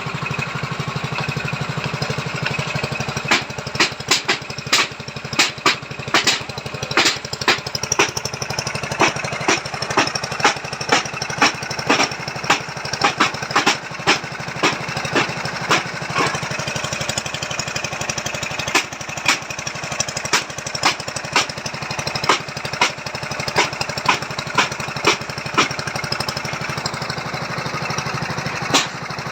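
Engine of a foundation-boring machine running steadily while it digs a pile hole, with frequent sharp knocks, about one to two a second, irregularly spaced.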